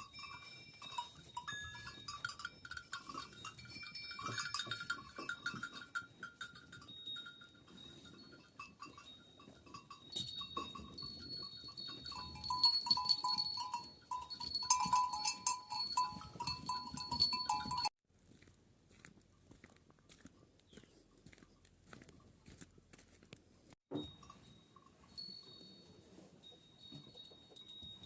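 A flock of Kangal sheep with bells ringing and sheep bleating. About two-thirds of the way through, the sound drops off suddenly to faint, scattered bell tones.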